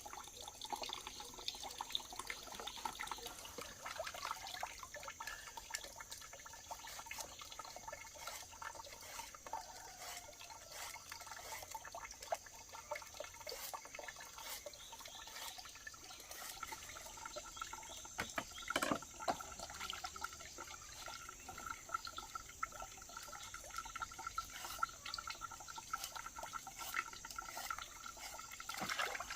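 Water trickling and dripping, with many small scattered clicks and ticks.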